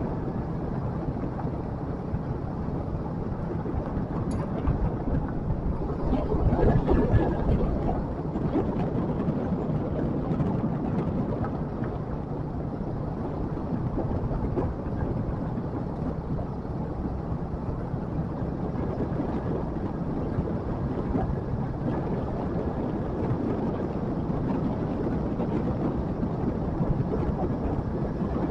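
Motorbike engine running steadily on the move, with wind and road noise; it gets louder for a moment about six to eight seconds in.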